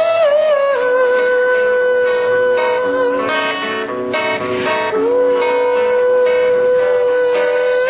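A woman's voice singing long held notes over acoustic guitar. Near the middle the voice drops out for about a second, leaving the guitar, then takes up another long held note.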